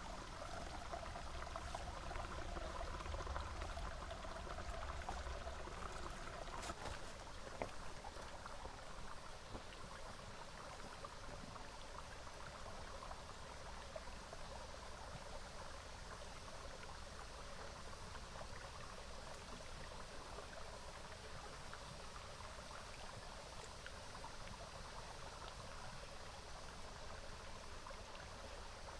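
Small river water trickling and flowing steadily, a little fuller for the first several seconds.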